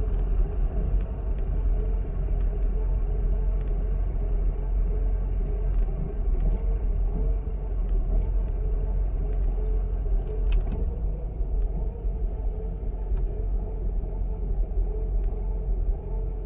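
Mercedes-Benz W140 S-Class engine idling roughly once hot after about an hour of driving, a steady low rumble whose loudness wavers unevenly.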